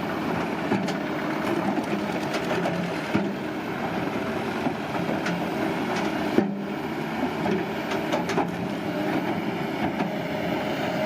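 Heavy construction machine's engine running steadily, with scattered small clanks and one sharp knock about six seconds in.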